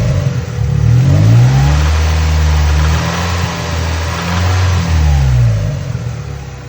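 Mazda NB Miata 1.8-litre four-cylinder engine being revved: the revs rise about a second in, hold, then fall back toward idle in the second half. The owner questions whether the engine has rod knock.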